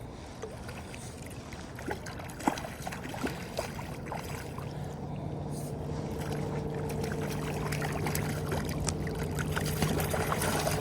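Steady rush of river water with scattered small clicks. About halfway through, a steady low hum with a higher overtone comes in and grows slowly louder.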